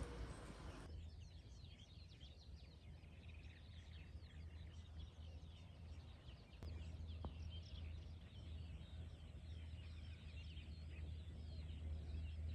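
Faint birdsong: many small birds chirping and calling at once, over a low steady rumble.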